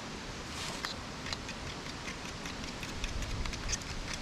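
Eggs and buttermilk being whisked with a fork in a bowl: quick, uneven clicks of the fork against the bowl, several a second. Wind rumbles on the microphone, stronger near the end.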